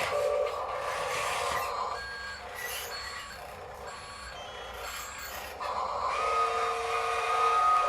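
Small electric motors and gearboxes of RC construction models (excavators, dump trucks, loader) whining as they work. The whine drops away about two seconds in and returns louder near the end, its pitch rising a little.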